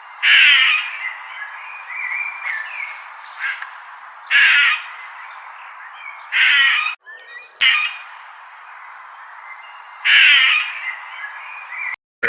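Squirrel alarm calls: five harsh, raspy calls about half a second long, a few seconds apart, with fainter short chirps between them over a steady background hiss.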